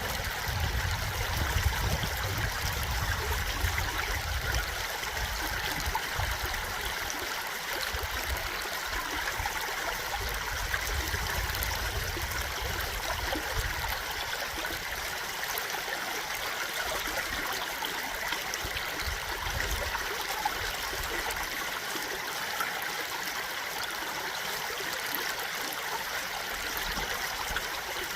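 A stream flowing and burbling in a steady rush of water, with a low rumble coming and going in the first half.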